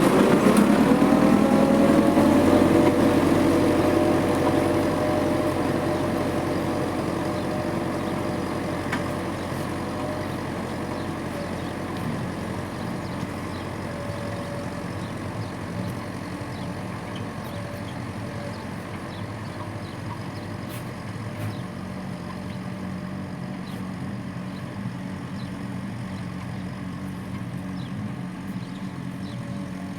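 Vehicle engine slowing down, its pitch falling and its sound fading over the first several seconds, then running steadily at a lower level.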